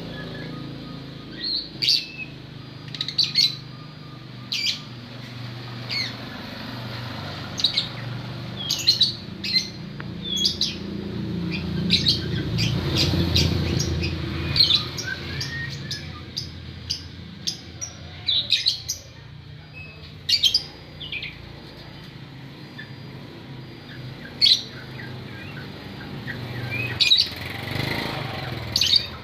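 A murai songbird (Copsychus, the shama and magpie-robin group) calling in short, sharp, scattered chirps at irregular intervals. A low rumble runs underneath and swells briefly about halfway through.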